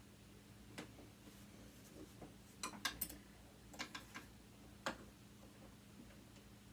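Faint, scattered clicks and taps of a screwdriver on screws and metal parts of a sewing machine motor, a dozen or so in the first five seconds, some in quick pairs. The screwdriver is working at a screw that will not turn.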